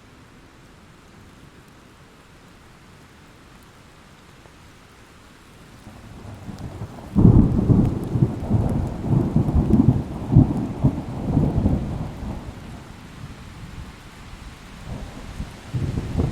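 Thunderstorm: steady rain with a thunderclap that builds from about six seconds in and breaks sharply about seven seconds in. Low rolling rumbles follow for several seconds, and another rumble of thunder rises near the end.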